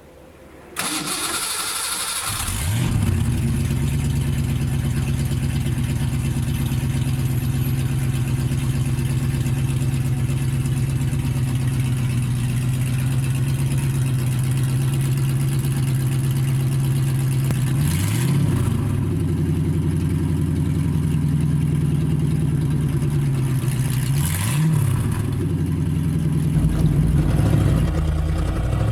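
Fox-body Mustang's stock 5.0 V8, with shorty headers and a catless H-pipe, turned over by the starter and catching after about two seconds, then idling steadily. It is blipped briefly twice, the pitch rising and falling, and picks up a little near the end.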